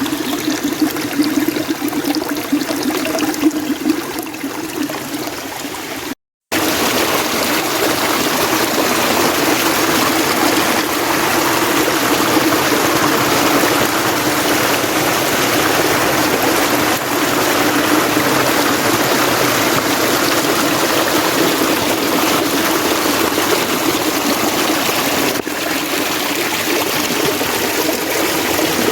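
Mountain stream running over rocks, a steady rush of water. It cuts out completely for a moment about six seconds in, then resumes steadier and slightly louder.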